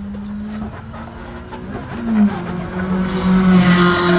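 Race car engine sound: a steady drone that swells louder and fuller about three seconds in.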